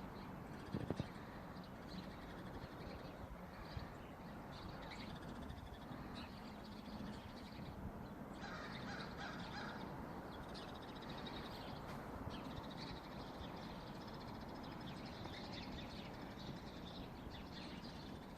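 Birds calling over a steady outdoor hiss, with a short run of lower, repeated calls about halfway through.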